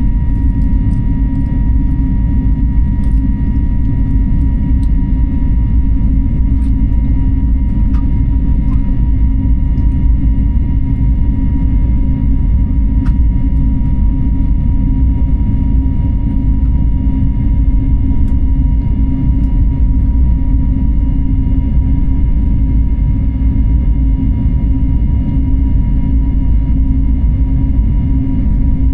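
Steady airliner cabin noise in flight: a constant low rumble of engines and airflow, with a faint steady whine.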